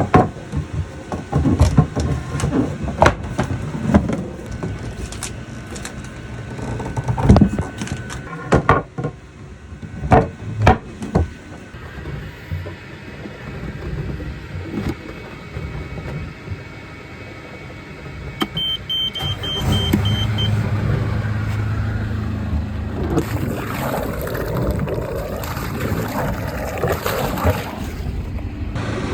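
Metal hand tools clicking and knocking on the boat's inboard engine during a raw-water pump impeller change. About two-thirds of the way through a short beeping alarm sounds, and the engine starts and runs steadily with its new impeller fitted.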